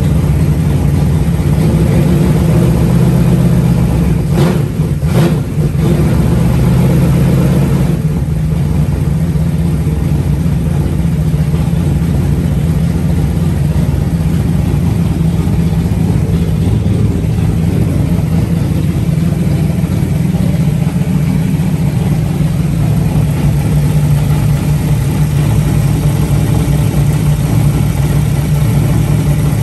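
Freshly built 360 stroker V8 running steadily during its first start-up, with a brief unsteadiness and dip in the sound about four to five seconds in.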